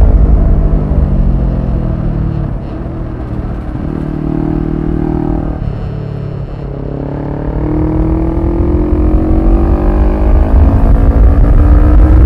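Kawasaki Versys 650's parallel-twin engine under way: its note falls in pitch and quietens over the first few seconds, runs steady at lower revs, then climbs in pitch and grows louder from about seven seconds in as the bike accelerates.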